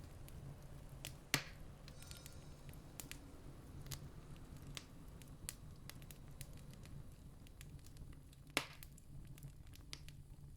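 Campfire wood crackling with scattered small snaps, and two louder pops, one about a second and a half in and one near the end, over a low steady rumble.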